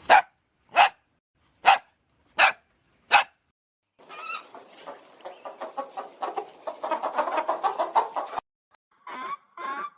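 A dog barking five times at an even pace, then, about four seconds in, a chicken clucking in a fast, dense run for about four seconds. Short animal calls start again near the end.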